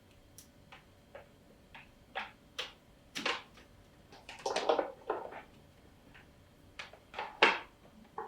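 Irregular light clicks, taps and small knocks of objects being handled, with a louder rattling cluster about four and a half seconds in and a sharp knock about seven and a half seconds in.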